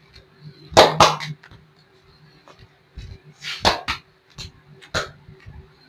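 Sharp smacks of hands on skin during a foot and leg massage: a quick pair about a second in, two more around the middle and one near the end, over a faint steady hum.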